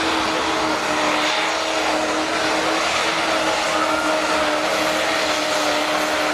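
Engine of a pulling tractor or truck running flat out at steady high revs under load: a loud, even drone with a steady pitch and a lot of hiss.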